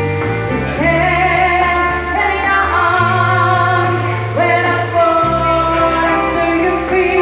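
A woman singing a pop song over backing music with sustained bass notes.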